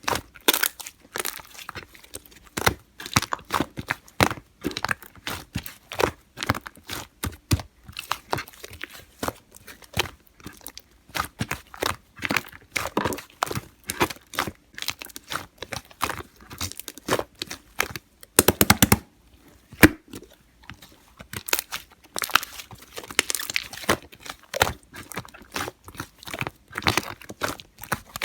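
Fluffy slime, lime-green slime mixed with shaving foam, being squished and stretched by hand, giving quick sticky pops and crackles, with a tight run of louder pops about two-thirds of the way in.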